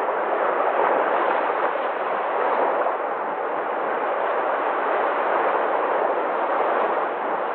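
Sea waves washing on the shore in a continuous rushing surf that swells and eases gently, with no single breaking crash standing out.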